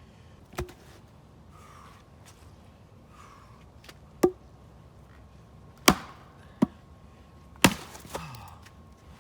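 Six sharp strikes at uneven intervals: one lighter hit near the start, then five harder ones in the second half, the last following close after the one before it.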